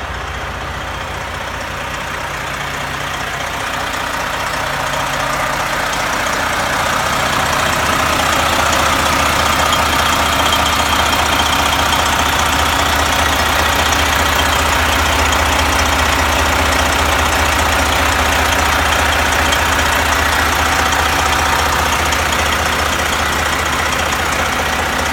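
Detroit Diesel Series 60 inline-six diesel in a Western Star 4900 highway tractor idling steadily, growing louder over the first several seconds and then holding even.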